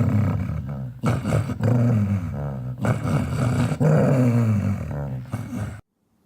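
Angry dog growling deep and aggressively in long, rumbling stretches broken by brief pauses. It cuts off suddenly about half a second before the end.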